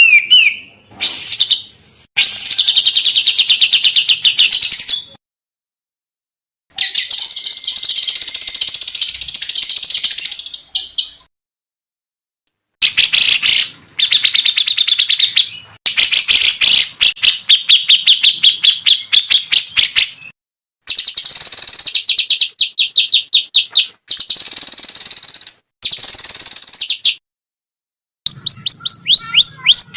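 Recorded songbird calls edited into a masteran (song-tutoring) track: bursts of one to four seconds of rapid, repeated chirps and trills, some lower and some higher pitched, cut apart by short spells of dead silence.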